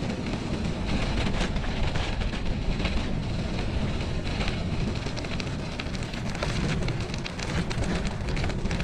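Wind buffeting the microphone during a bicycle ride, with steady crackling from the tyres rolling over a snowy trail.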